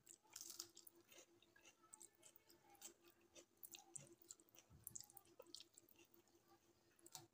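Faint chewing and small wet mouth clicks as a mouthful of rice is eaten, with the soft sounds of fingers mixing rice on a metal plate.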